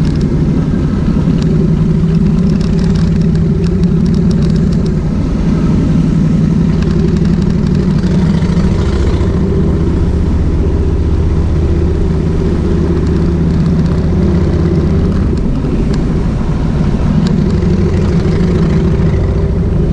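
Kawasaki VN1600 Mean Streak's V-twin engine running steadily, with only small changes in pitch and level.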